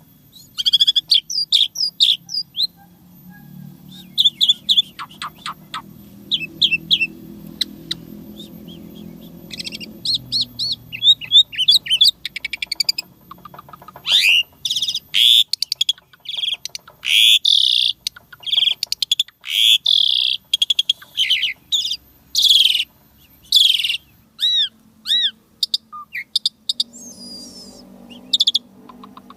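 Asian pied starling (jalak suren) singing a long, varied run of quick chirps, whistled slurs and trills, the densest and loudest stretch coming in the second half.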